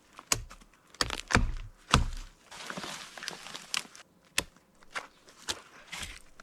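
A hatchet chopping wood: about ten sharp knocks at uneven intervals, roughly two a second, as it takes limbs off felled trees.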